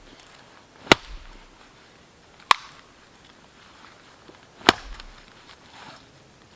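An axe chopping wood: three sharp single strikes, spaced about two seconds apart.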